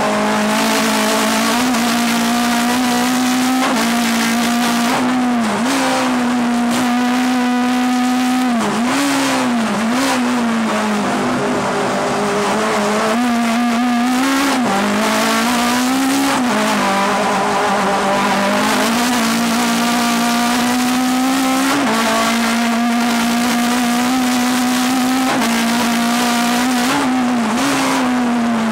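Fiat Ritmo 105's four-cylinder race engine running hard under load, heard from inside the cabin, its pitch climbing and falling again and again as the revs rise through the gears and drop for corners.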